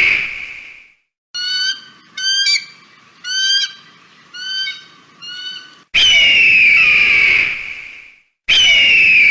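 Eagle calls: a long, high screech fading out, then a run of five short, sharp pitched calls, then two more long screeches about six and eight and a half seconds in, each starting abruptly.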